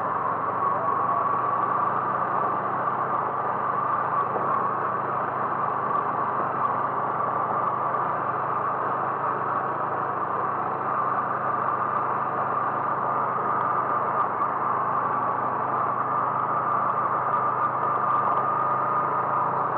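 Car engine and road noise while driving: a steady drone with a whining tone that creeps slightly up in pitch near the end.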